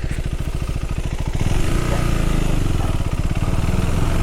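KTM Duke 390's single-cylinder engine running with an even chugging pulse at low revs, then getting louder and busier about a second and a half in as it picks up.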